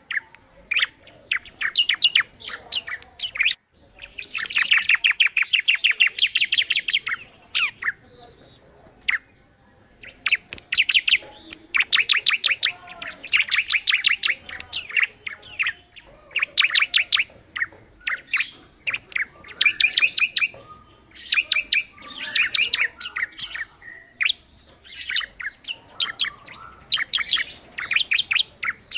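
Prinia (ciblek) singing: repeated bursts of rapid, sharp, high chirps, each phrase a second or a few seconds long with short pauses between, and a longer, denser run a few seconds in.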